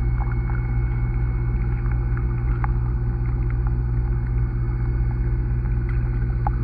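Underwater sound in a pond picked up by a submerged camera: a steady low hum with faint scattered clicks and crackles.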